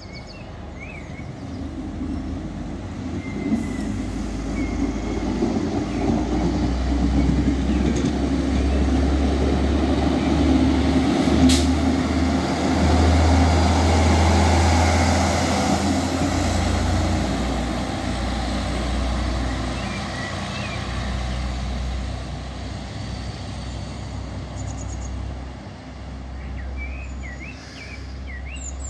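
A train running past, its low engine hum and rumble building over about ten seconds, loudest around the middle, then slowly fading, with one sharp click about eleven seconds in. Birds chirp faintly at the start and near the end.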